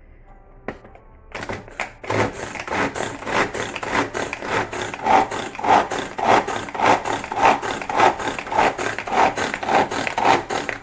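Small kitchen food chopper working in quick repeated strokes, about two a second, its blades chopping bell pepper, onion and pieces of meat. A single click comes just before the chopping starts.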